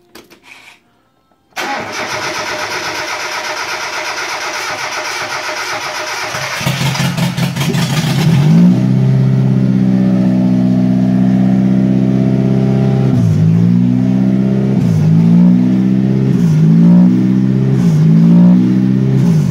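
Mitsubishi Galant engine cranked on the starter for several seconds until it catches and starts, then idling unevenly. The revs dip and recover about every two seconds, an idle hunt the owner puts down to a faulty idle air control valve.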